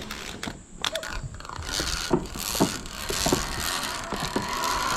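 Zip-line trolley pulleys rolling along the steel cable: a whirring hiss that builds from about a second and a half in, with scattered knocks.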